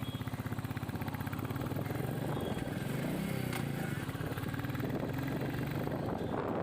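Royal Enfield Classic 350's single-cylinder engine running steadily at cruising speed, a fast even thump from the exhaust, with a short rise and fall in pitch near the middle.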